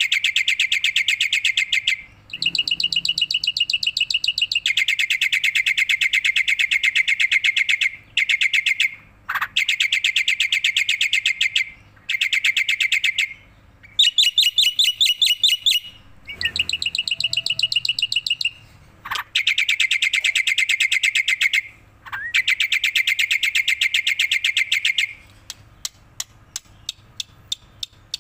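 Black-winged starling singing vigorously: loud bouts of rapid, rattling chatter a few seconds long, separated by short pauses with quick rising whistles, thinning to a few separate clicks near the end.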